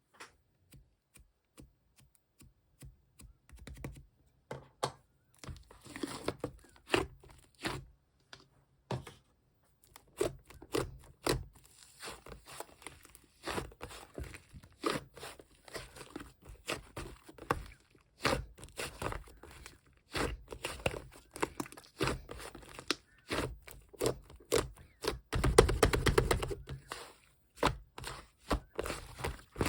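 Slime being squeezed and kneaded by hand, giving irregular sticky clicks and pops. They start sparse and get denser, with a longer, louder squish about 25 seconds in.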